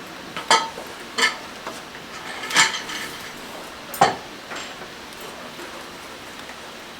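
Small metal tools clinking on a hard work surface: four short, sharp clinks, the last one about four seconds in.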